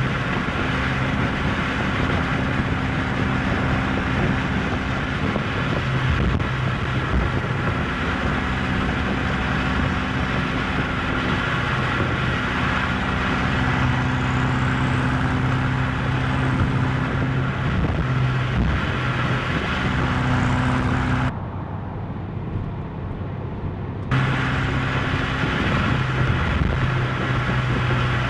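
BMW M8 Competition's twin-turbo V8 droning at a steady cruise under tyre and road noise, the engine note fading and returning every few seconds as the throttle changes. About 21 seconds in, the sound goes muffled and a little quieter for about three seconds, then comes back.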